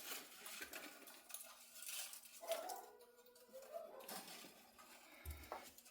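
Faint clicks and light metallic clinks from handling a guitar's tremolo bridge hardware, with a soft low bump about five seconds in.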